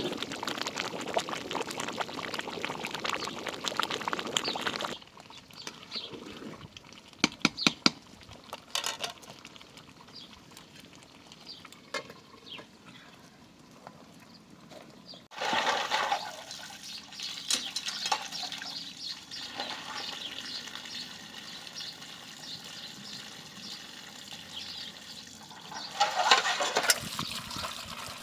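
Water pouring and splashing in stretches, broken by a quieter spell of sharp clicks and knocks from handling.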